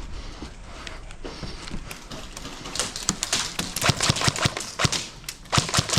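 A run of sharp, irregular clicks and knocks, sparse at first and coming thickly in the last three seconds.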